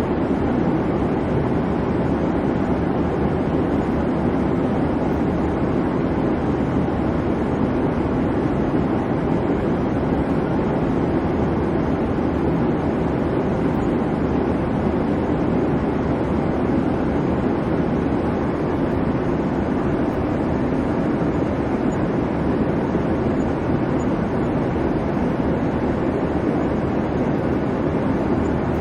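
Airliner cabin noise in flight: a steady, even low rumble and rush of engine and airflow, with no change.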